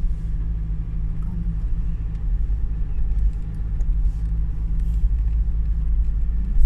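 Steady low rumble of an Isuzu MU-X on the move, heard from inside the cabin: engine and road noise.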